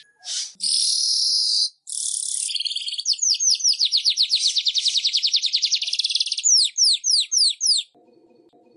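Weaver bird (manyar) singing: a fast chattering trill and a harsh buzz, then a long run of rapid high notes, ending in about six quick down-slurred whistles. The song stops abruptly about eight seconds in, leaving a faint low hum.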